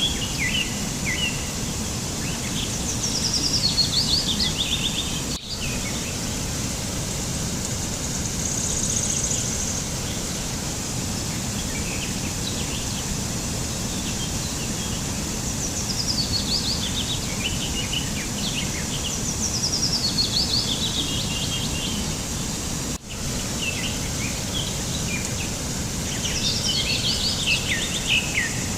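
A songbird singing runs of quick chirps that fall in pitch, repeated several times, over a steady rushing background noise. The sound dips out briefly twice.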